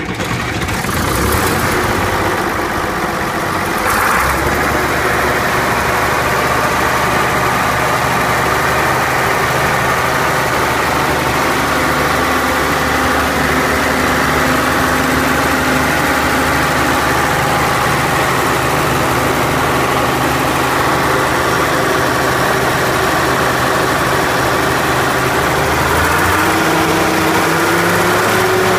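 John Deere 6600 combine engine running steadily. Its note steps up about four seconds in and rises slightly again near the end.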